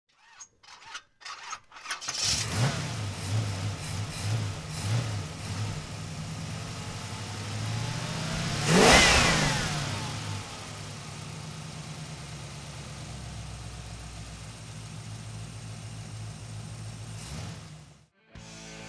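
A few sharp clicks, then a car engine catches about two seconds in and is revved in several quick blips. A car passes loudly about nine seconds in, then an engine runs steadily until the sound cuts off suddenly near the end.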